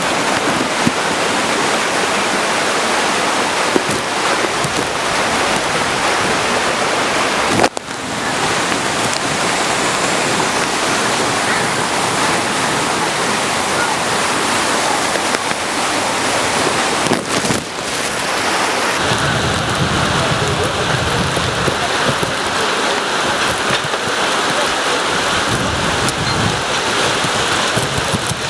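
Heavy rain pouring down, a loud, even hiss, broken by two brief sudden dips about 8 and 17 seconds in. In the last third a deeper rumbling comes and goes under the rain.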